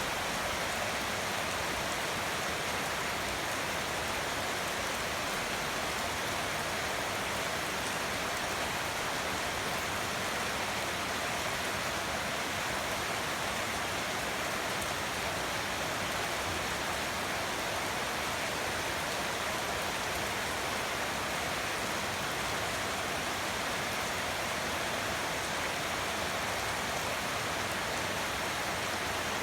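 Heavy rain falling, a steady, even hiss with no individual drops standing out.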